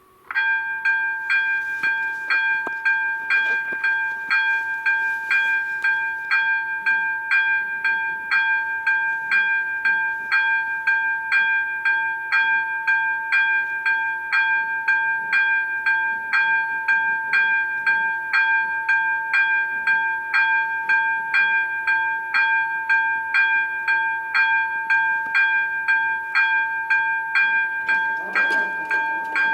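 Railroad level-crossing warning bell starting to ring suddenly and repeating at about two strikes a second, each strike a two-tone ring: the crossing's warning for an approaching train. A low rising sound joins near the end.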